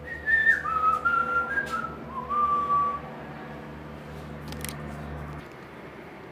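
A person whistling a short tune of a few held notes that step up and down, over a low steady hum.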